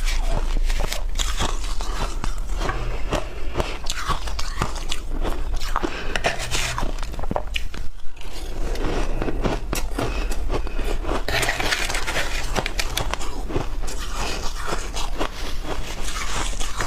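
Close-up crunching and chewing of shaved ice: a continuous run of crackly bites and crunches as mouthfuls of ice are broken up.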